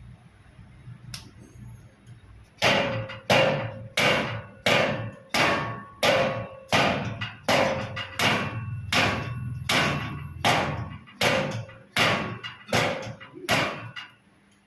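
About sixteen hard blows on a hard object, evenly spaced roughly 0.7 s apart. Each ends in a short ringing tone. They begin a couple of seconds in and stop just before the end.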